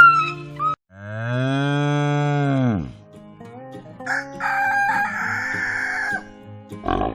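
A cow mooing once, a long low call that drops in pitch at its end, then a rooster crowing, over faint background music.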